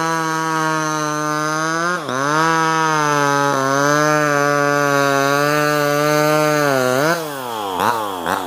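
Small two-stroke top-handle chainsaw running at high revs as it cuts, its pitch sagging sharply about two seconds in and then recovering. Near the end the revs drop and rise quickly several times as the throttle is let off and blipped.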